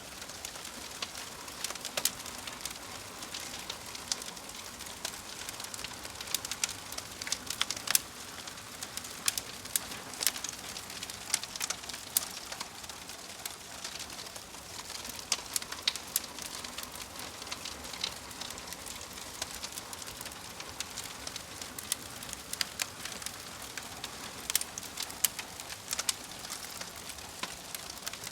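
Fire crackling: irregular sharp pops and snaps, many per second at times, over a steady soft hiss.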